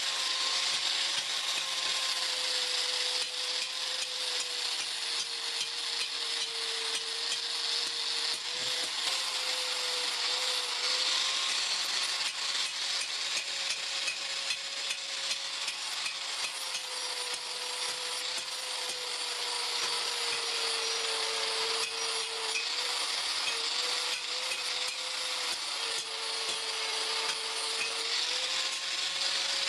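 Power tool working steel, most likely a grinder: a steady motor whine over a harsh grinding hiss, the pitch sagging now and then as the tool is pressed into the metal and picking back up.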